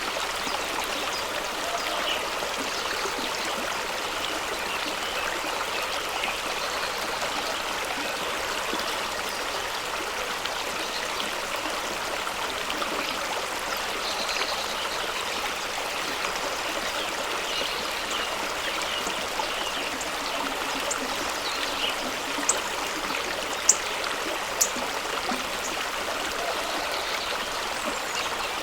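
Fast-running stream rushing and splashing over rocks in a steady, even wash of water. Three brief sharp ticks come close together near the end.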